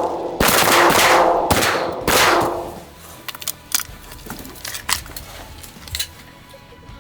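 Several shotgun blasts in quick succession in the first couple of seconds, each ringing out and fading slowly. Then the shooting stops, and only faint scattered clicks and knocks are left.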